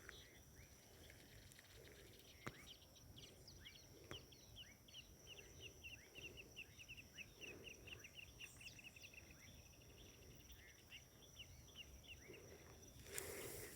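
Faint bird chirping in near silence: a quick run of short chirps builds up a few seconds in, then thins out. A faint, steady high tone runs underneath.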